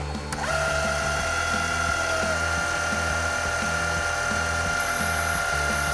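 Metal lathe starting up about half a second in and running with a steady high whine as a boring bar opens up the bore of an aluminum bung. Background music with a steady beat plays underneath.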